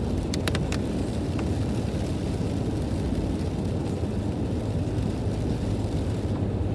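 Steady low rumble of a car driving on a rain-wet road, heard from inside the cabin, with a few short clicks about half a second in.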